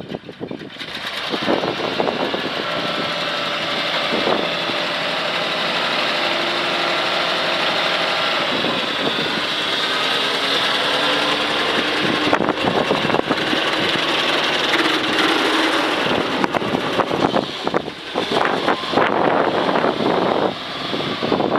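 1970 Chevy C-50 grain truck's engine running steadily, turning rougher and more uneven in the last few seconds.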